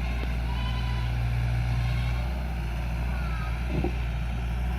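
Heavy diesel engine of earth-moving machinery running steadily, with a short knock near the end.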